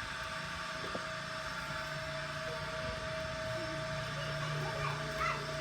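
Steady mechanical hum from a running machine, with a few faint short vocal sounds near the end.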